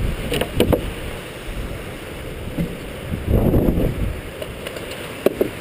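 Wind buffeting the microphone in gusts. A few sharp knocks come about half a second in and near the end.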